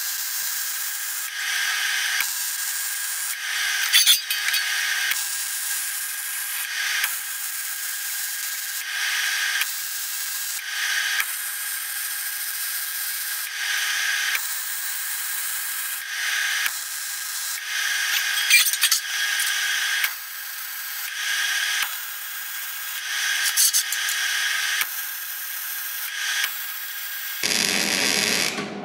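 Welding arc crackling and hissing in repeated bursts of about a second each, with short pauses between, as steel tabs are welded fully onto a steel guard plate. A faint hum comes and goes with each burst. The sound changes abruptly just before the end.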